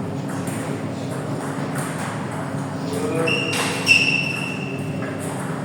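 Table tennis hall ambience: scattered clicks of balls striking tables and bats over a steady hum, with a louder click a little past halfway. A thin, high squeal is held for about a second and a half around the same point.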